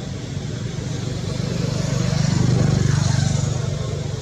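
A motor vehicle's engine passing by, growing louder to a peak a little past halfway and then fading.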